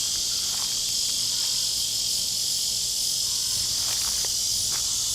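A steady, high-pitched insect chorus of crickets or cicadas filling the air, with a few faint ticks toward the end.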